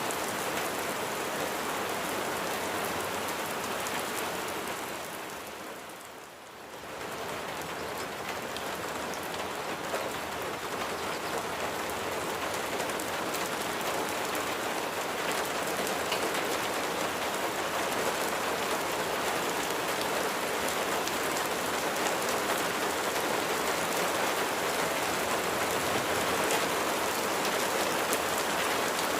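Steady rain falling on a surface, a dense even hiss. About five seconds in it briefly fades down and comes back up.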